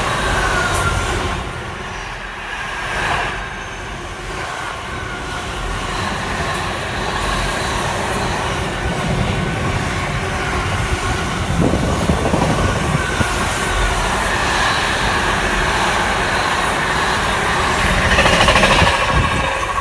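Container freight train's wagons rolling past, a steady heavy rumble with thin high squeals from the wheels on the rails.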